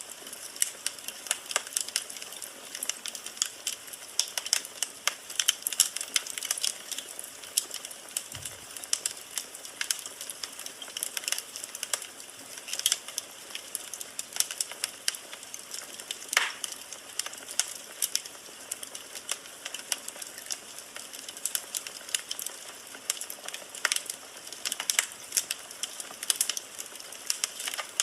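Firewood burning in a fireplace: a steady, irregular crackling of quick pops and snaps over a soft hiss of flame, with a few sharper pops standing out.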